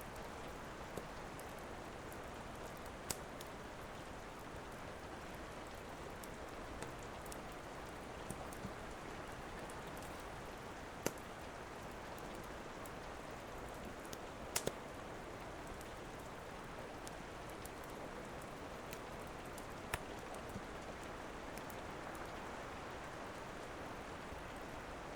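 Steady rain falling, with the occasional sharp pop and crackle of a wood fire; a few crackles stand out, about three, eleven, fourteen and twenty seconds in.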